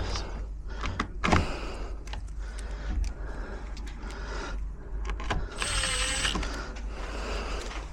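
Scattered clicks and knocks of a door lock and handle being worked by hand, with a short hiss about six seconds in.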